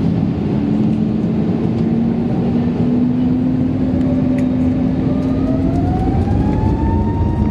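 Airbus A321neo jet engines spooling up, heard from inside the cabin: a steady rush of engine and air noise with a low hum, and a whine that climbs in pitch from about four seconds in and then holds steady.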